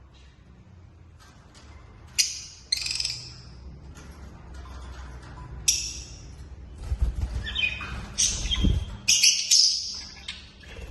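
Lovebirds giving short shrill chirps and squawks in separate bursts, coming more often and loudest in the last few seconds, with a few low thumps in the middle of the calling.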